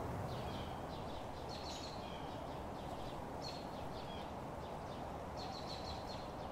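Birds chirping in several short bursts over a steady low outdoor background noise.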